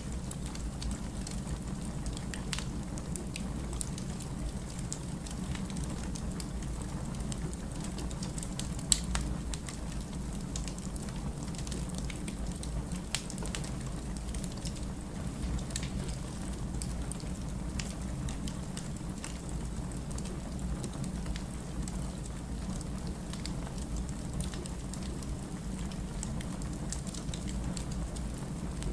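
Wood fire burning in a fireplace: a steady low rumble with scattered crackles and pops, one sharper pop about nine seconds in.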